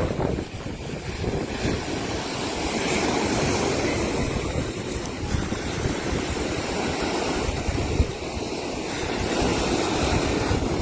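Strong wind buffeting the microphone over ocean surf washing onto the beach, with a single brief thump about eight seconds in.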